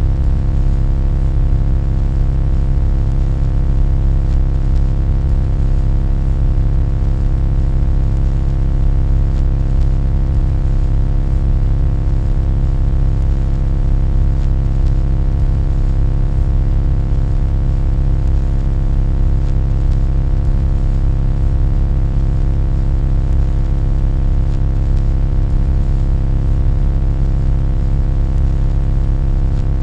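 Loud, steady low drone: a deep hum with a stack of unchanging overtones above it, holding constant without a break.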